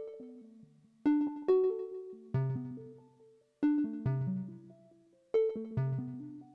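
Modular synthesizer music: pitched, plucked-sounding notes with sharp attacks that fade away, played in short groups about every second and a half, with a lower note joining from about two seconds in.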